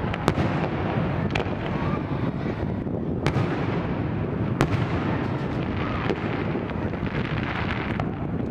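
Fireworks display going off: a continuous low rumble of booms with sharp, cracking reports scattered through it, the loudest just after the start.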